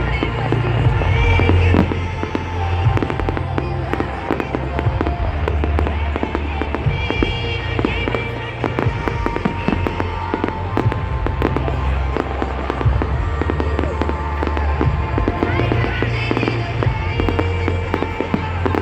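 Fireworks bursting and crackling in rapid succession over loud music with a heavy bass.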